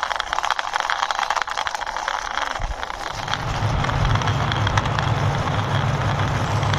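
Plastic toy military tank pushed by hand, its wheels clicking and rattling over the surface. About three seconds in, a steady low rumble joins and runs on.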